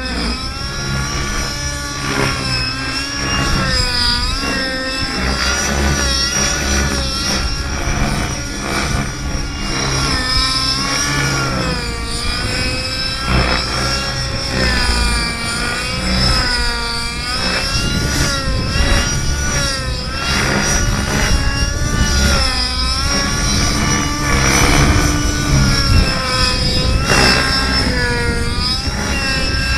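Engine-powered radio-controlled model helicopter flying, its engine and rotor running continuously with the pitch rising and falling over and over as it is thrown through repeated tic-toc manoeuvres, with a steady high whine on top.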